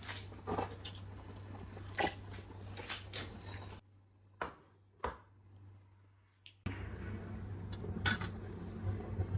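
Kitchen handling sounds: scattered light clinks and knocks of dishes and utensils over a low steady hum. The hum drops out for about three seconds in the middle.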